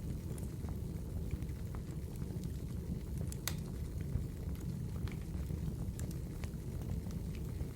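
Wood fire burning in a fireplace: a steady low rumble of flames with scattered crackles and pops, one louder pop about three and a half seconds in.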